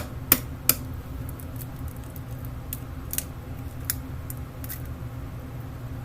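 A few short, sharp clicks and light taps of things being handled in a kitchen: three quick ones in the first second, then single ones spread out, over a steady low hum.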